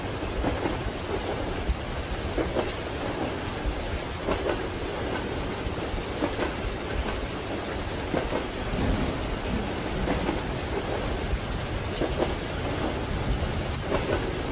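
Steady rain with a deep low rumble underneath and a few faint irregular knocks.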